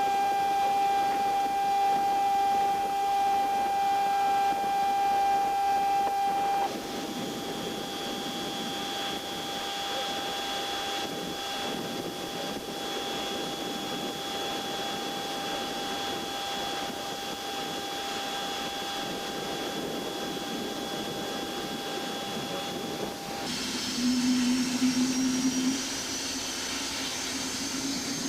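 Avro Vulcan's Bristol Olympus turbojet being dry motored: turned by its air-start motor alone, ignition off, as a steady whine of several held tones. The pitch changes about a third of the way in, and near the end a new high whine starts rising slowly as the engine winds up.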